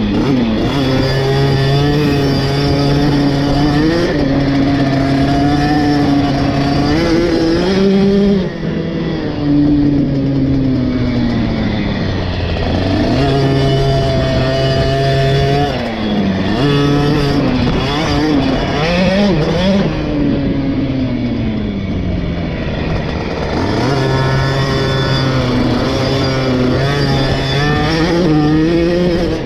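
KTM 50 SX's small two-stroke single-cylinder engine being ridden hard on a motocross track, its note rising as the throttle opens and falling off every few seconds.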